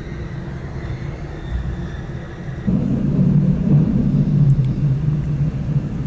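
Pilatus Railway rack-railway car running up the mountain, a steady low rumble with a faint steady whine. About two and a half seconds in the whine stops and the rumble suddenly gets louder.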